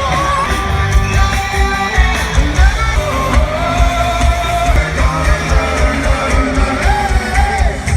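Live rock band playing loudly, with a singer over guitars and a pounding beat.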